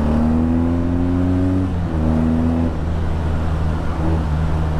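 BMW R nineT's boxer twin with an Akrapovic exhaust pulling under throttle, its note rising steadily, breaking briefly about two seconds in, then holding a moment before easing off. There is a steady low drone underneath.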